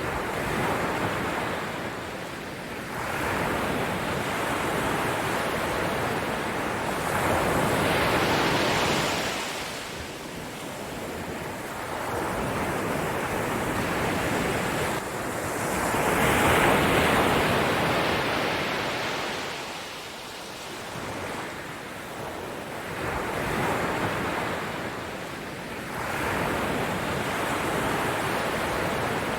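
Ocean waves breaking and washing back, a steady rush that swells and fades every few seconds, with the biggest surge about halfway through.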